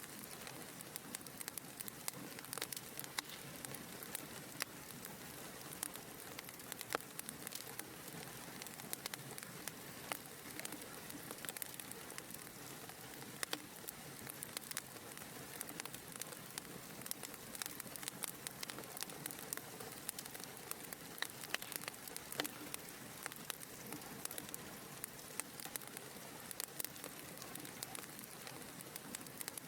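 Fire crackling in a fireplace: a steady soft hiss with many small, irregular pops and snaps.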